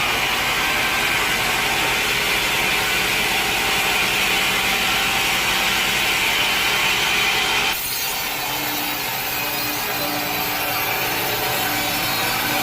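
Sawmill blade cutting through a log, a steady sawing noise. The sound changes abruptly about eight seconds in.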